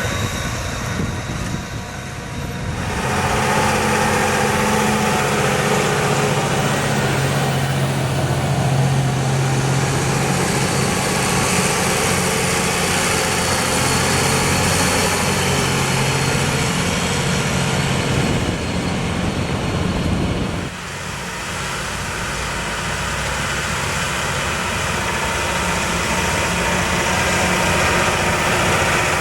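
Large farm tractor's diesel engine running steadily while ploughing. About two-thirds of the way through, the sound drops suddenly, then builds back up.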